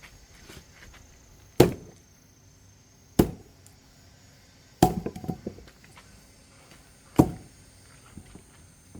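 Firewood being chopped: four sharp strikes into wood, roughly one every one and a half to two and a half seconds, the third followed by a brief clatter of smaller knocks.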